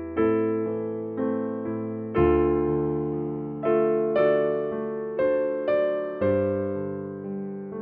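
Slow, gentle background music played on a piano or electric piano: soft chords struck every half second to a second, each one fading away.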